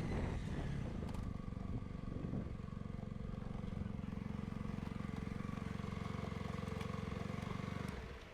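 Yamaha YZF-R125's single-cylinder four-stroke engine running steadily with an even, rapid pulse, then stopping just before the end.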